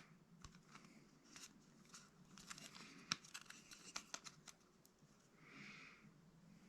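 Faint handling sounds of small transmission parts and seal-kit O-rings on a bench: scattered light clicks and soft rustling, with a brief hissy rustle near the end.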